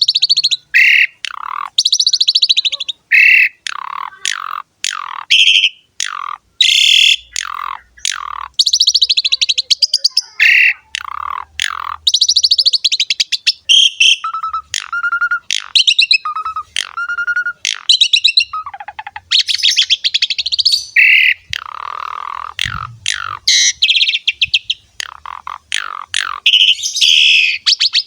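Asian pied starling (jalak suren) singing a long, varied song: a fast string of harsh buzzy notes, chatters and falling whistles, with a run of short, level whistled notes repeated around the middle.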